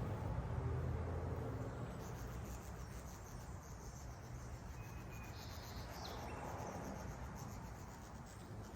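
Backyard ambience: faint high-pitched chirping and trilling, with a short falling chirp a little past the middle, over a low steady hum.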